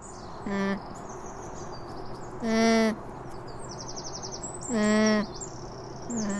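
Alpaca humming: four short, level-pitched hums about two seconds apart, the middle two the loudest. Small birds chirp in the background.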